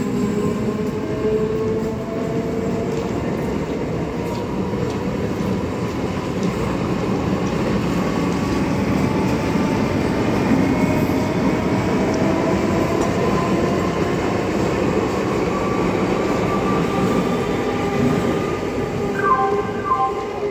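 Chennai suburban electric multiple-unit local train running along the tracks: a steady rumble of wheels on rail, with a whine slowly rising in pitch.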